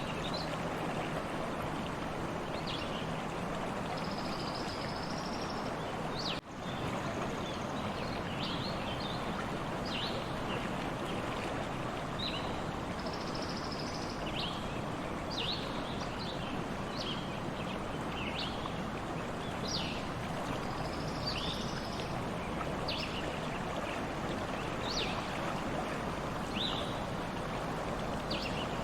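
Stream water running steadily, with birds chirping repeatedly in short, quick calls over it. The sound drops out very briefly about six seconds in.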